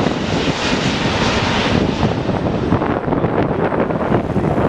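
Jet airliner arriving, its engine noise a loud even rush that is strongest in the first two seconds and then loses its upper edge as it draws away, with wind buffeting the microphone.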